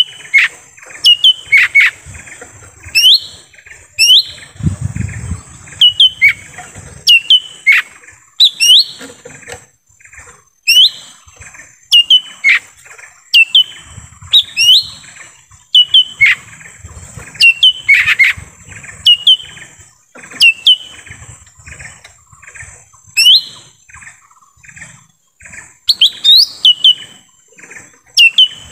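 Lesser green leafbird (cucak ijo mini) calling over and over: loud, sharp upward-sweeping notes mixed with short chattering notes, about one call a second with brief gaps.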